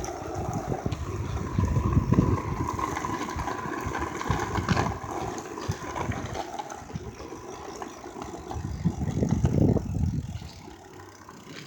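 Wind buffeting the microphone and wheels rumbling on the road during a fast downhill ride, in uneven gusts that die down near the end.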